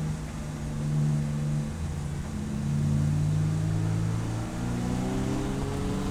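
Race car engine running hard on track: the note holds fairly steady, dips briefly, then climbs as the revs rise near the end.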